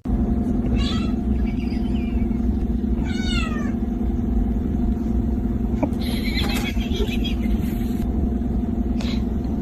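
A cat meowing twice, about a second in and again around three seconds in, the second call falling in pitch, over a steady low hum.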